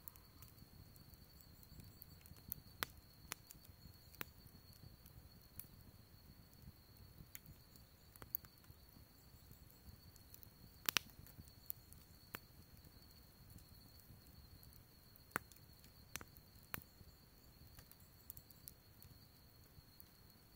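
Wood campfire crackling, with irregular sharp pops and snaps, the loudest about eleven seconds in, over a low steady rumble of the burning.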